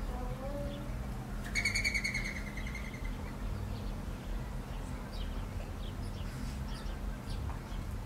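Wild birds calling: one drawn-out high call about a second and a half in, falling slightly, then faint scattered chirps.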